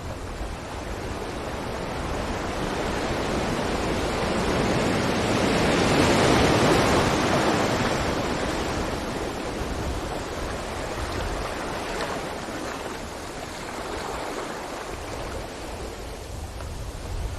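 Ocean waves on a beach: the surf swells to a peak about six seconds in as a wave breaks, then washes out and fades over the following seconds.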